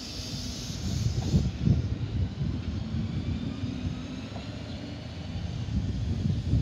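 Sydney Trains K-set double-deck electric train moving along the platform: a steady low wheel-and-motor rumble with a hum, broken by several heavier knocks in the first couple of seconds. A high hiss fades out about a second and a half in.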